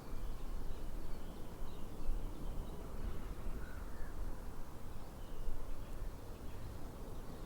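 Outdoor ambience: a steady low rumble with a few faint bird calls scattered through it.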